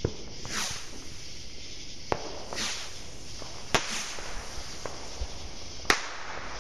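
Fireworks going off at night: about four sharp bangs a second or two apart, the loudest near the end, with smaller pops and two brief hissing whooshes in the first few seconds.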